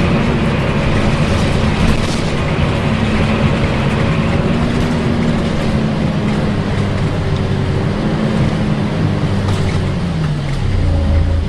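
A Volvo B10BLE bus heard from on board while driving: its engine runs with the steady whooshing 'hoover' drone of its cooling fan. Near the end the engine note drops in pitch and settles into a deeper, louder tone.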